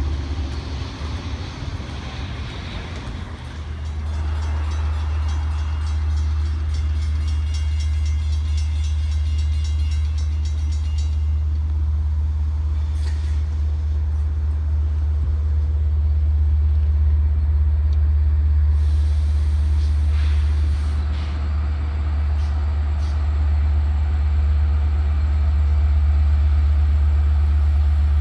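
Long Island Rail Road diesel locomotive train running in toward the station as a steady low rumble, growing louder about four seconds in and again a little past halfway.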